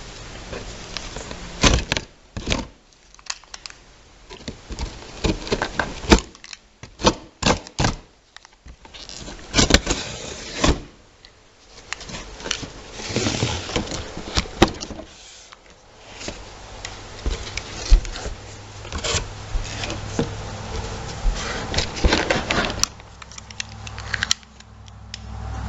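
A cardboard shipping box being opened and unpacked by hand: an irregular run of clicks, scrapes and crackles of cardboard and packing.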